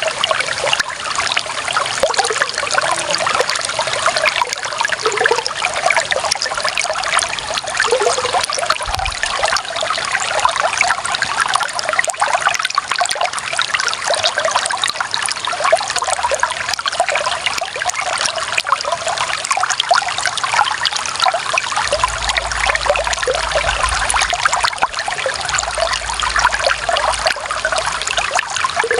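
Clear running water trickling and splashing in a steady stream, with dense fine splashy detail.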